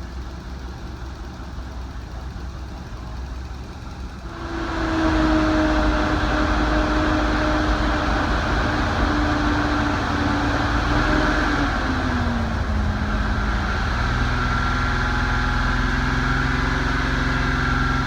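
Turbocharged Nissan L28ET straight-six engine of a Datsun 280ZX running on stale fuel soon after its first start, misfiring. About four seconds in it gets much louder and runs at a raised speed as if held on throttle, then its pitch eases down a little about two-thirds of the way through and holds.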